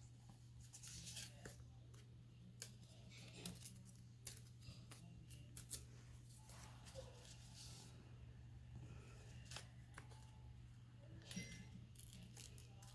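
Faint paper being trimmed and handled: scissors snipping and paper rustling, with scattered small clicks, over a low steady hum.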